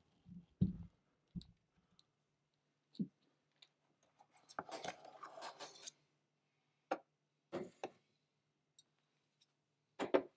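Scattered light knocks and clicks of things being handled, with about a second and a half of rough scraping noise about halfway, over a faint steady hum.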